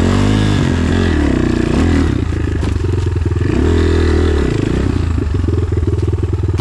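Enduro motorcycle engine revved in two bursts, the first right at the start and the second about four seconds in, chugging at low revs between them.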